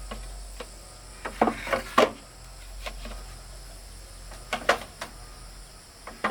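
Three short bursts of sharp wooden knocks and clatter, like lengths of wood or bamboo being struck or handled, with faint insects droning behind.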